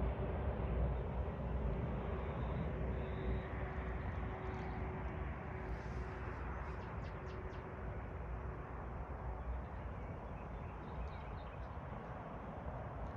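Outdoor evening ambience: a steady low rumble with a faint hum that fades out around the middle, and small birds giving short, faint chirps several times in the second half.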